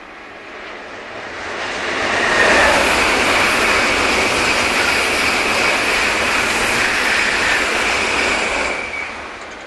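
Shinkansen bullet train passing close at speed: a rush of noise builds over about two seconds, holds steady with a high whine running through it, then fades near the end.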